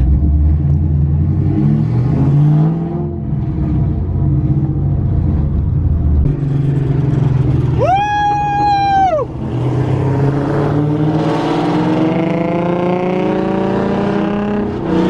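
Car engine running, with a single high squeal lasting about a second roughly eight seconds in, then the engine pitch climbing steadily as the car accelerates through the last few seconds.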